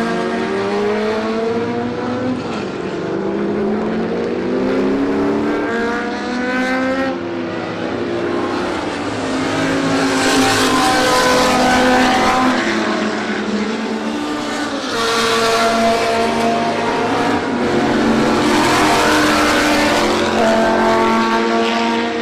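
Engines of several historic racing sports cars running hard, overlapping, their pitch climbing through the revs and dropping at each gear change. Cars pass close about 10, 15 and 19 seconds in.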